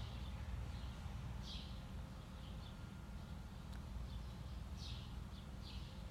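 Small birds chirping in short, separate high calls every second or so, over a low steady outdoor rumble.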